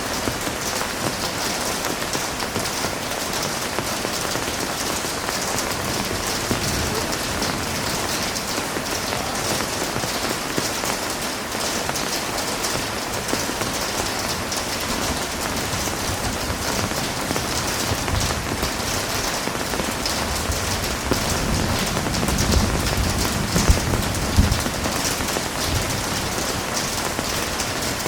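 Heavy rain falling steadily in a dense, even hiss. Near the end a low rumble swells for a few seconds.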